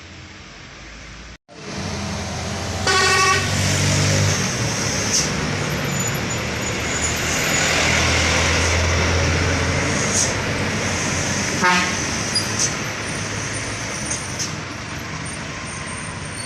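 Heavy trucks driving up a steep road, their engines running with a steady low hum under road noise. A vehicle horn sounds briefly about three seconds in, and again more shortly near twelve seconds.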